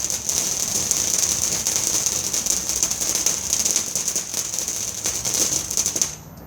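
Firework crackling and fizzing in a dense, steady rush of tiny pops that stops abruptly about six seconds in.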